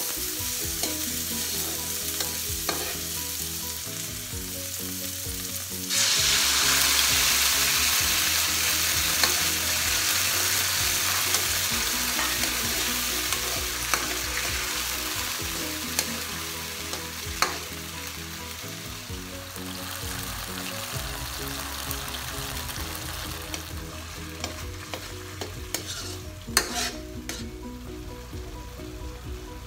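Food sizzling and frying in a hot wok while being stirred with a metal ladle. About six seconds in the sizzle suddenly jumps louder, as fresh food hits the hot pan, then slowly dies down. The ladle clinks against the wok a few times.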